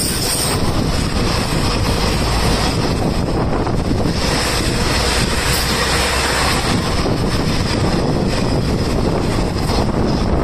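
Freight train passing close by, its open wagons and then tank cars rolling steadily on the rails with a continuous loud rumble of steel wheels.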